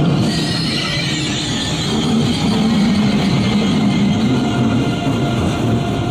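ICE 3 high-speed electric trainset passing close by at low speed on curved track: a steady rumble of wheels on rails, with a high wheel squeal in the first couple of seconds.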